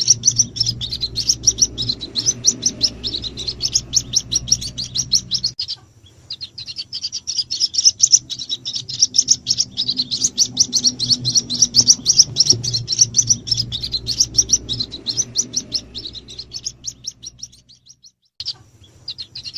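Recorded calls of white-breasted waterhen chicks: a rapid, unbroken stream of high peeping chirps, played as a lure to draw in the parent birds. The calls break off briefly about six seconds in, and fade out near the end before starting again.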